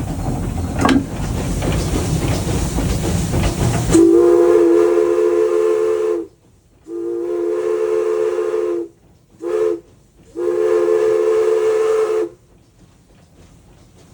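Steam locomotive running, heard from inside the cab as a loud steady rush. About four seconds in, its whistle sounds a chord of several tones in four blasts, long, long, short, long: the grade-crossing signal.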